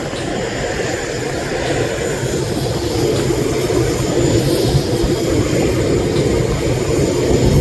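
Jet airliner's engines running close by, a loud steady noise that grows a little louder about three seconds in.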